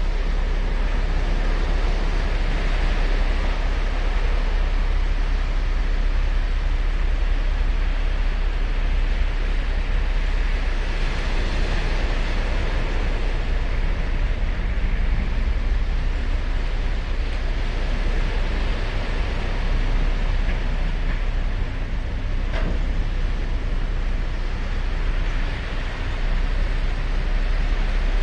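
Ocean surf: waves breaking and washing up the shore, swelling about every seven or eight seconds over a steady low rumble.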